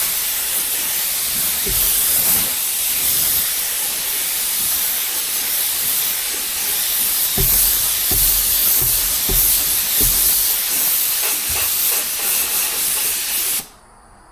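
Compressed-air paint spray gun hissing steadily as a colour coat is sprayed onto a car body panel, with the trigger released suddenly near the end. A few soft low knocks sound underneath.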